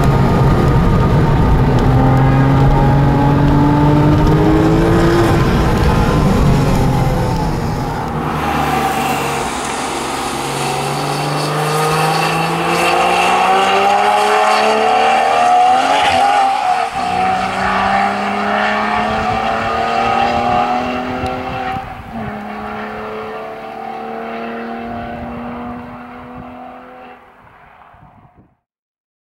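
Porsche 996 Carrera 4S's flat-six engine at full throttle. For the first several seconds it is heard loud from inside the cabin. After that it is heard from outside, climbing in pitch through several gears and dropping back at each upshift, before fading out near the end.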